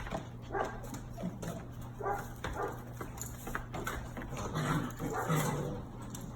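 Seven-week-old German Shepherd puppy crying in several short, high vocalizations, the uneasy sounds of a puppy newly brought to a strange place.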